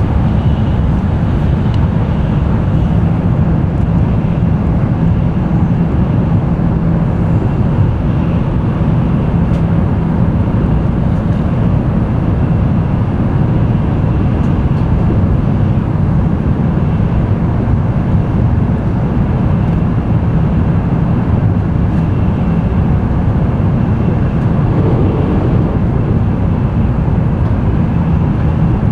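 Running noise of a Tokaido Shinkansen N700-series train heard from inside the passenger cabin: a steady low rumble with a few faint clicks.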